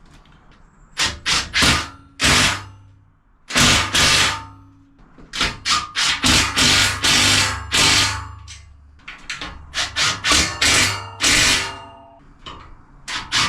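A power tool run in a string of short bursts, each up to about a second long, with a motor hum under several of them.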